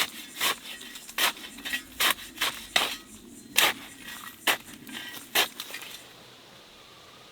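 About a dozen sharp, crunching knocks at an uneven pace, roughly one every half second, stopping about six seconds in.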